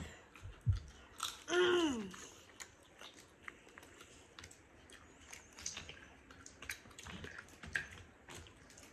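Close-up eating sounds: chewing and mouth smacks, with small cracks and clicks of boiled crawfish and shrimp shells being peeled by hand. A low thump comes just under a second in, and a short falling hum from a voice about a second and a half in is the loudest sound.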